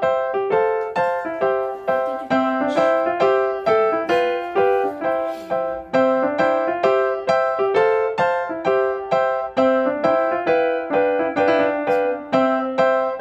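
Background piano music: a steady run of single notes in a repeating pattern, about three or four notes a second.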